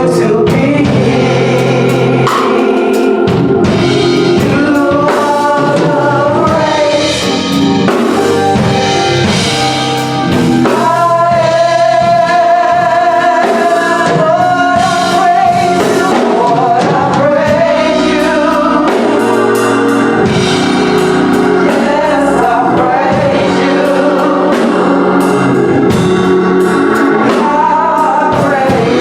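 Gospel song: a group of singers holding long sung lines over a drum kit and band accompaniment.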